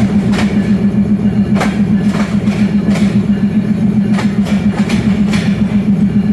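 Express passenger train running at speed: a steady low rumble with a quick, uneven series of clicks as the wheels pass over rail joints.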